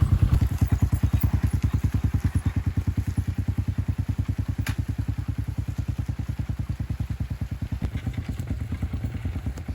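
Motorcycle engine running at low revs, an even rapid thudding of about ten beats a second that slowly gets quieter.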